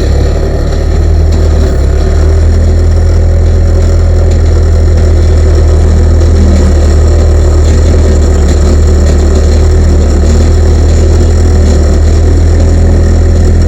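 Skid steer engine idling steadily, a loud, even low hum.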